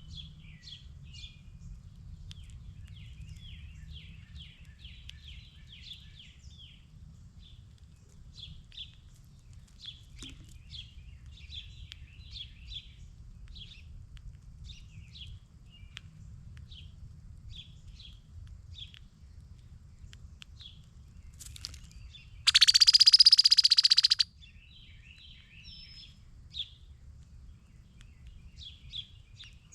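Small songbirds chirping and twittering in quick short notes, over a steady low rumble. About two-thirds of the way in, a much louder harsh, buzzy call lasts about a second and a half.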